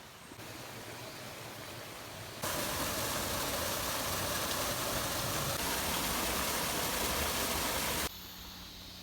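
Steady rush of falling water from a waterfall. It jumps much louder about two and a half seconds in and drops back sharply about eight seconds in.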